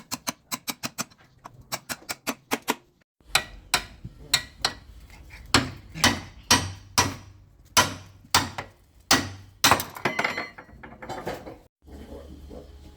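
Repeated hammer strikes: a run of quick, light taps at first, then heavier blows about two a second.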